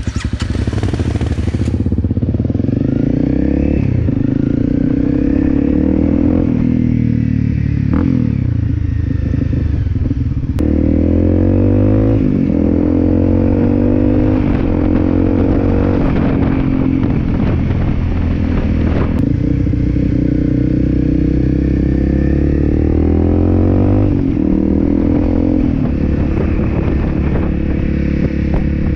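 Honda CRF250L's single-cylinder four-stroke engine pulling away and accelerating through the gears. The revs climb and drop back at each shift, with steadier cruising stretches between.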